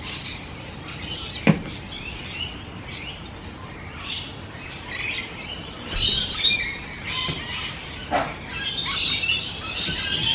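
Birds chirping and calling, a busy mix of short high chirps and trills that grows denser after about six seconds, with two brief knocks along the way.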